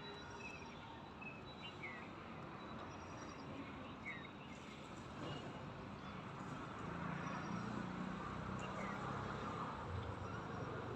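Birds calling outdoors: short, high, falling chirps every couple of seconds over a steady background hiss, with a faint low call about two-thirds of the way through.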